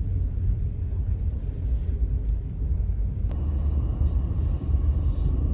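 Low, steady rumble of a vehicle driving, heavy in the bass, changing abruptly about three seconds in.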